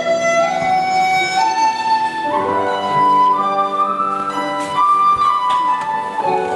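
Chinese bamboo flute playing a slow melody of long held notes that step upward in pitch over lower sustained accompaniment.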